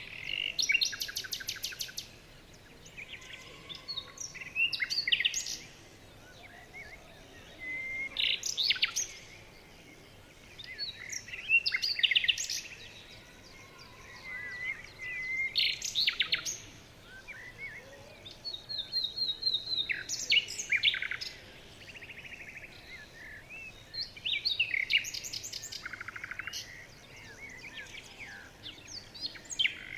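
Songbirds singing, with a phrase of rapid, high trilled notes repeating about every four seconds and softer chirps between phrases.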